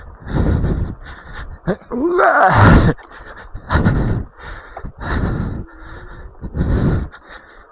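A person breathing hard in rhythmic heavy breaths, about one every second and a half, with a loud strained groan rising in pitch about two seconds in.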